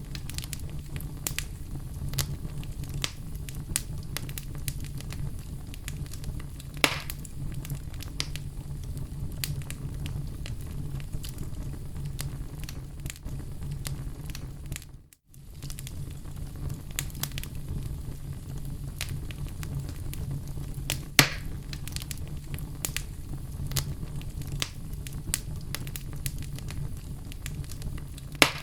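Oak logs burning in a fireplace: a steady low rumble of flame with frequent small crackles and a few louder pops, about 7 and 21 seconds in. Halfway through, the sound cuts out for a split second.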